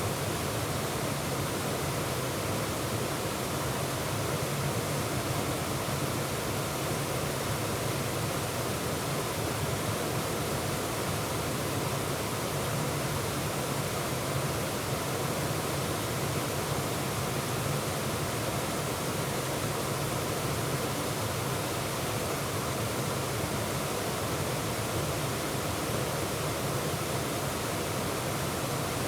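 Waterfall pouring over rocks: a steady, even rush of falling white water with no breaks.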